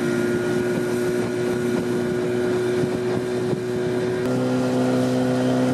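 Small motorboat's engine running steadily, its note stepping down to a lower pitch about four seconds in.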